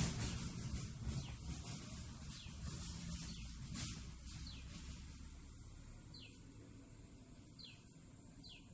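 A small bird calling outdoors with short, sharply falling chirps, one every second or two, starting about halfway through. A broad rustling noise at the start fades away over the first few seconds.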